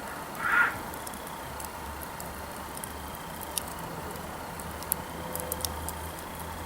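Wood campfire crackling, with scattered sharp pops of burning firewood. A brief louder rushing sound comes about half a second in, and a low steady rumble sits underneath from about two seconds on.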